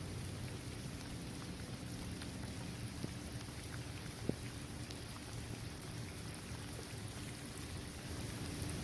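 Steady rain falling on a paved basketball court, trees and grass, with single drops ticking close by. One sharper drop lands about four seconds in.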